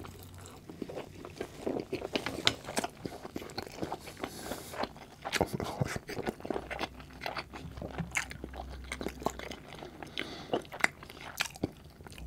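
Close-miked chewing of a forkful of poutine and curly fries: wet, crunchy mouth sounds with many sharp clicks and smacks.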